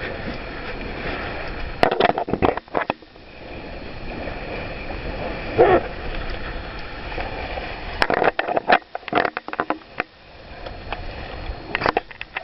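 Laser sailing dinghy in storm wind: a steady rush of wind and water, broken by clusters of sharp knocks and splashes about two seconds in and again around eight to nine seconds in.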